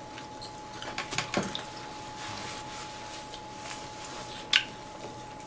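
Soft chewing and small wet mouth clicks from eating grilled beef, with one sharper click about four and a half seconds in, over a faint steady tone.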